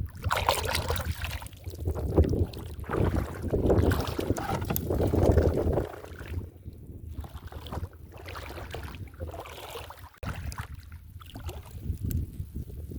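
Water sloshing and splashing, with wind rumbling on the microphone; louder for the first six seconds or so, then quieter.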